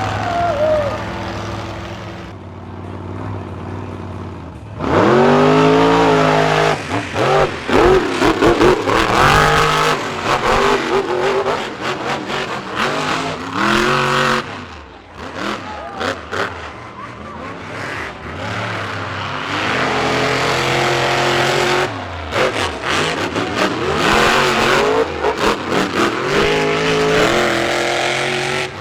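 Monster truck engines revving hard, their pitch climbing and falling again and again as the trucks launch and race, after a quieter few seconds near the start.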